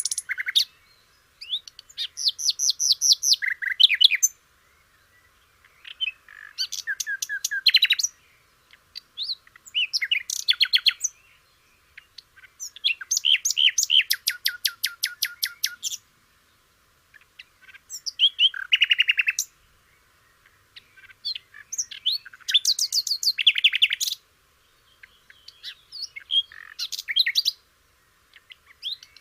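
A songbird, the sikatan londo of Indonesian bird keepers, singing: seven phrases of fast repeated trills and sharp high whistles, each about two to three seconds long, with short pauses between them.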